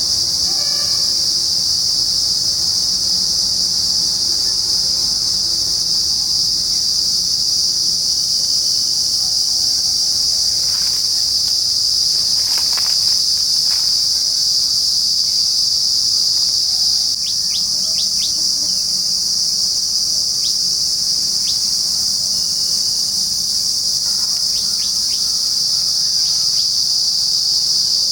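A loud, steady, high-pitched drone from a chorus of insects in trees, unbroken throughout. A few short bird chirps cut in past the middle and again near the end.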